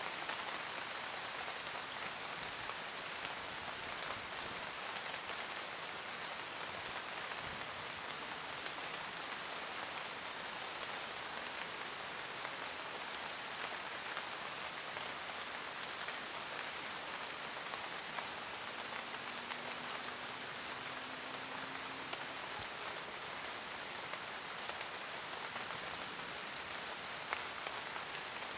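Steady forest rain falling on leaves, an even hiss with scattered individual drops ticking through it.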